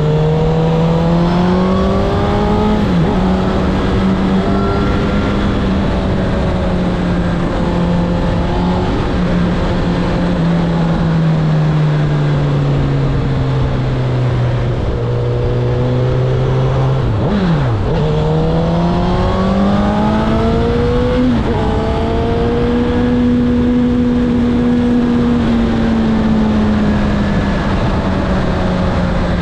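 Honda CB1000R's inline-four engine running, its note rising and falling slowly over several seconds, with three brief sharp drops in pitch, over a steady rush of noise.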